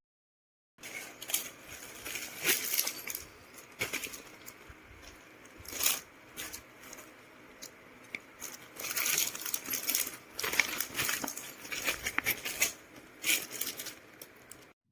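A fabric travel bag being handled: irregular crinkling and rustling broken by sharp clicks, coming in bursts.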